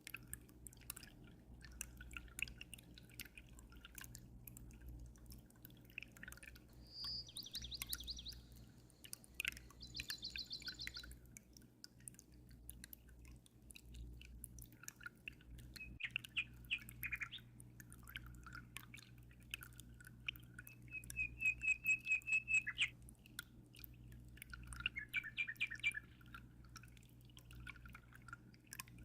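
Small birds chirping and trilling in several short bursts, the loudest a quick run of about eight notes about two-thirds of the way through. Underneath run a continual patter of aquarium water dripping and a low steady hum.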